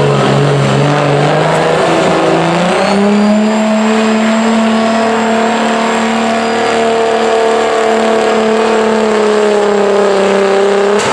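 Modified street diesel pickup engine at full throttle pulling a sled. Its pitch climbs about three seconds in, then holds high and sags slightly as the load builds.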